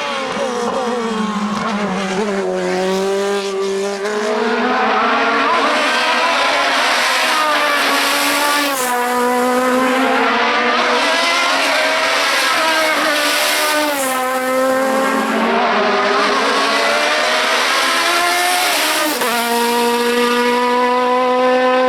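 Race car engine at full throttle, climbing in pitch and dropping back sharply at each gear change, several times in a row.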